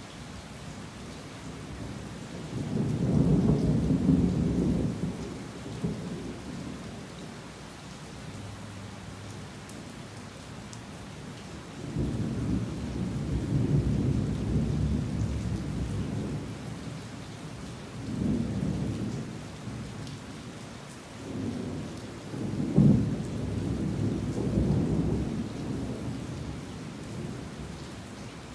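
Heavy rain falling steadily, with low thunder rumbling several times: a roll a few seconds in, then a longer run of rolls from about halfway to near the end.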